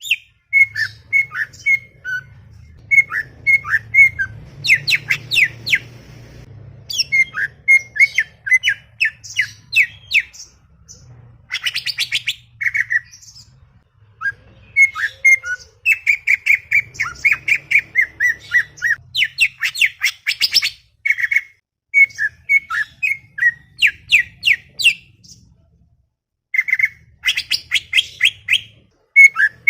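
Greater green leafbird (cucak ijo) singing in fast, chattering runs of short, sharp notes, phrase after phrase with brief pauses between, over a faint low hum.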